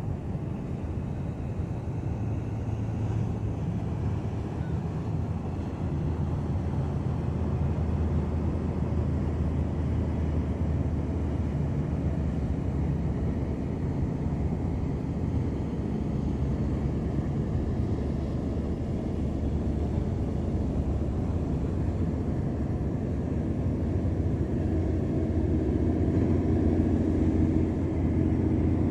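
A ship's engine running steadily with a low, even drone. It grows a little louder over time, and a higher steady tone joins in near the end.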